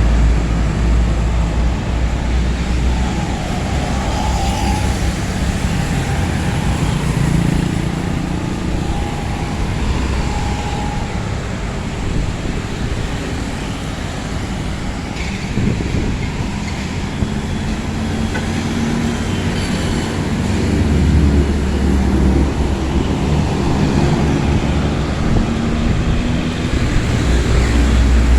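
Heavy truck engine running under way with steady road noise, its low note shifting up and down as the revs change.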